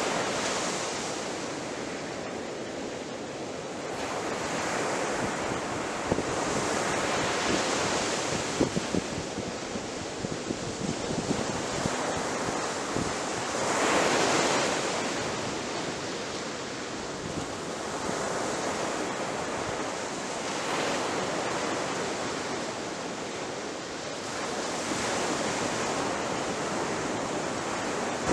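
Sea waves breaking on the shore, the surf swelling and ebbing every few seconds, with the loudest break about halfway through. Short crackles come from the wash in the first half.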